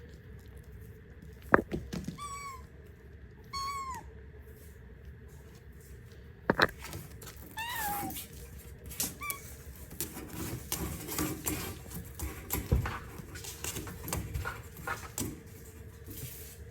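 A cat mewing: four short, high-pitched mews, each falling in pitch at the end. Sharp knocks and a run of small clicks and taps sound between them.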